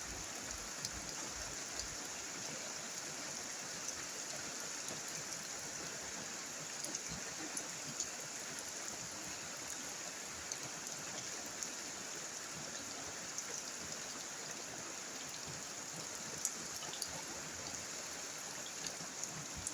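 Steady monsoon rain falling, with scattered louder drop ticks.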